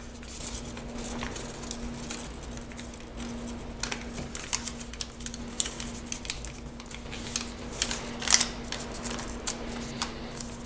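A sheet of origami paper being folded and creased by hand, rustling and crackling irregularly with a few sharper crinkles, the loudest about eight seconds in. A steady low hum sits under it.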